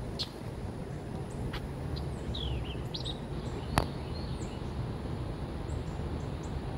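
Small birds chirping: many short, quick falling chirps, over a steady low outdoor rumble. A single sharp click sounds a little under four seconds in.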